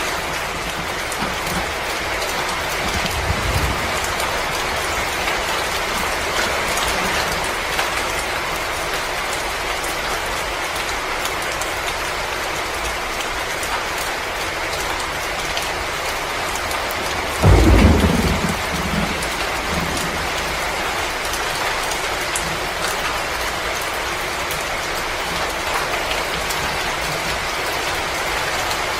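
Fireplace ambience: a wood fire crackling over a steady hiss, with many small pops. A sudden low rumble comes a little past halfway and fades within about a second.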